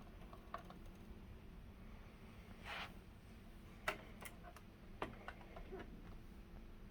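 A few light clicks over a low room hum, with a short soft rustle just before the loudest click and a sharper click about a second after it: small handling noises.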